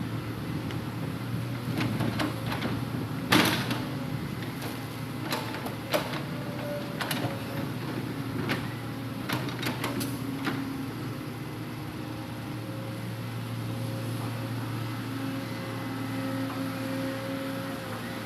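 Hitachi Zaxis 200-5G hydraulic excavator running steadily with a whine of its hydraulics rising and falling, while it handles logs. Sharp knocks and clanks come in the first half, the loudest about three seconds in, then the engine runs on steadily.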